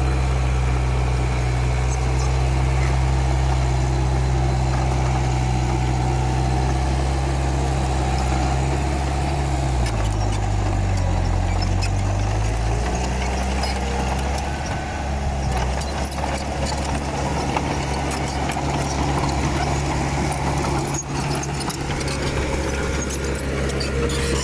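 Komatsu D31P bulldozer's diesel engine running steadily. About ten seconds in, its pitch drops for a couple of seconds and then comes back up. Scattered clanks and rattles follow in the second half.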